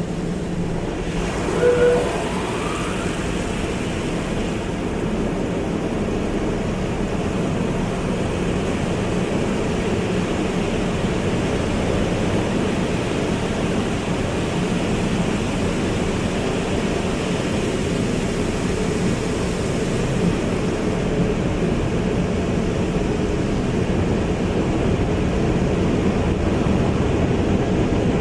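Automatic car wash running: a steady rush of water spray and machinery, with a brief high squeak about two seconds in.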